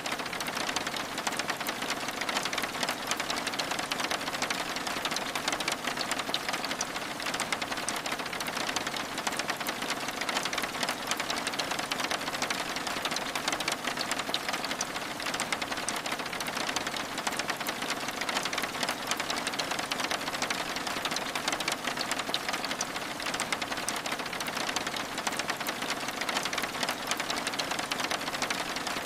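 Steady rain on window glass: an even hiss of patter thick with fine, quick drop ticks.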